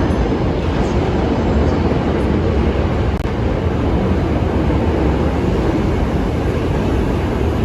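Hankyu electric train running past, a steady low rumble.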